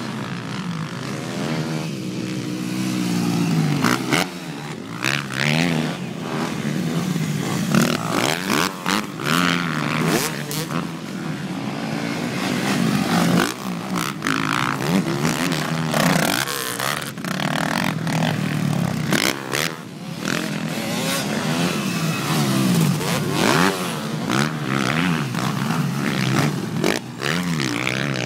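Several motocross bikes racing, their engines revving up and down over one another as they accelerate, shift and pass, with scattered sharp clatters.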